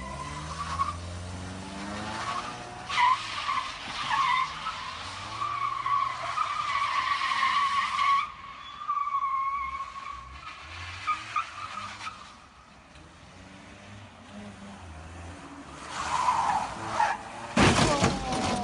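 Car tyres squealing in a long, wavering skid, with engine and road noise under it. A sudden loud noise near the end.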